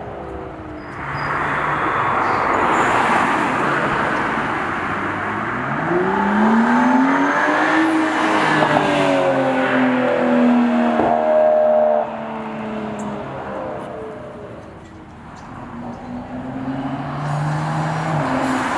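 BMW F30 335i turbocharged inline-six running through an AWE Tuning cat-back exhaust with performance midpipe while the car accelerates. The engine note climbs in pitch and holds, drops sharply about twelve seconds in, then builds again near the end.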